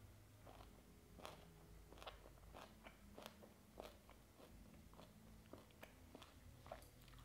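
Faint, close-miked chewing of a mouthful of raw beef and banana flower salad: many small, irregular crisp crunches as the sliced banana flower is bitten through.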